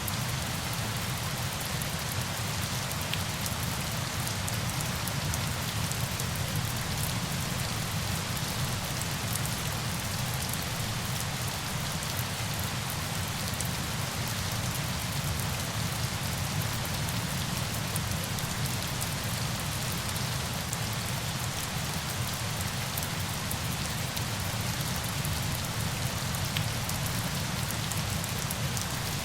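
Steady falling water: an even, unbroken hiss over a low rumble, with faint scattered drop ticks.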